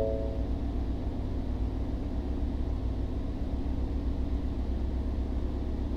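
The 2017 Mustang GT's 5.0 V8 engine idling steadily with a low rumble. A few piano notes trail off just after the start.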